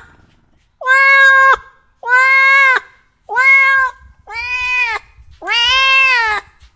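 A cat meowing: five long, clear meows in a row, about a second apart. Each meow holds a fairly even pitch that bends down at the end.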